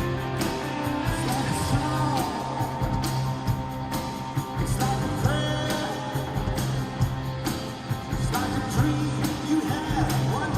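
Rock band playing live: a sung vocal over drums, bass and guitars, with a steady drum beat.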